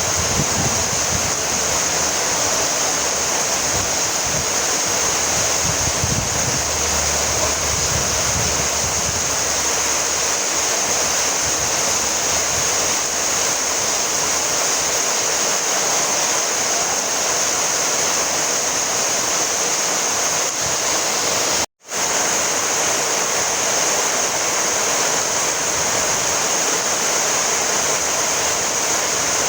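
Steady, dense rain hiss, with a low rumble that comes and goes in the first ten seconds. About 22 seconds in, the sound cuts out for a split second and then resumes unchanged.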